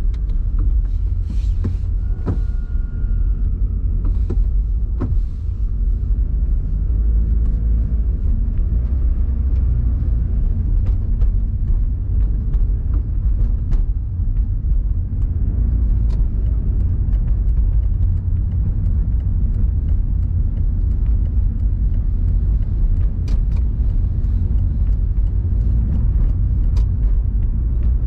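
Car running with a steady low rumble, with a few sharp clicks in the first five seconds.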